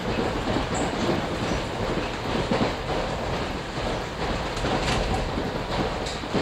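New Jersey Transit commuter train running along the line, heard from inside the passenger car: a steady rumble of wheels on rails with occasional clicks from the rail joints.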